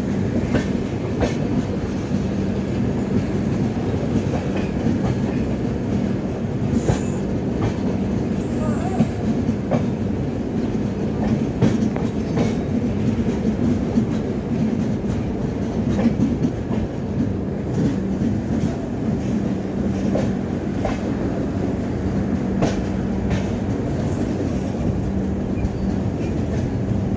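Passenger train running along the track: a steady rumble with a constant low hum and scattered clicks of wheels over rail joints.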